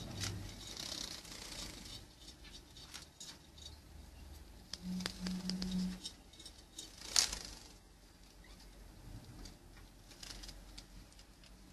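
Pet birds moving about: scattered light clicks and scratches, with one sharper click about seven seconds in. A brief low hum sounds around five seconds in.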